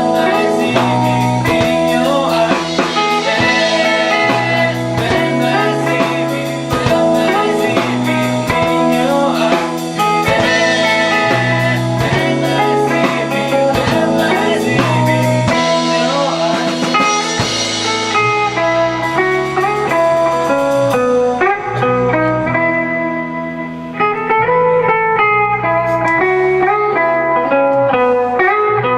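Live rock band playing a blues-flavoured instrumental passage, with electric guitar over bass and drums. About two-thirds of the way through, the drums and cymbals drop away and the guitar and bass carry on.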